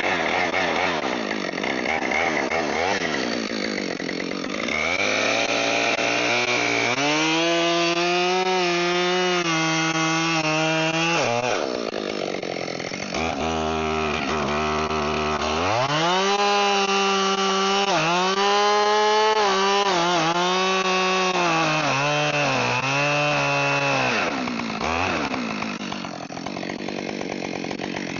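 Gasoline chainsaw cutting through a fallen oak log: the engine runs at high revs, its pitch sagging and recovering as the chain bites. It drops to idle for a couple of seconds near the middle, then revs back up into the cut.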